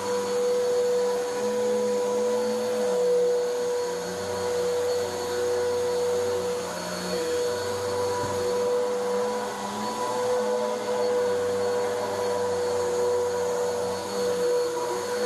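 Vacuum cleaner running steadily with a constant high motor whine, pre-vacuuming carpet full of dry soil before cleaning.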